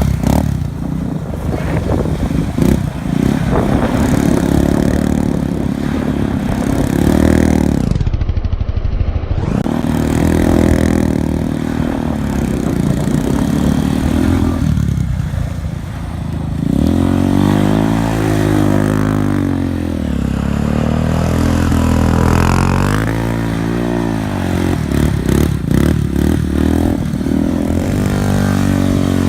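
Off-road vehicle engine revving and easing off over and over, its pitch rising and falling as the machine is ridden hard. The engine drops away briefly about eight seconds in, then comes back with several quick climbs and falls in pitch.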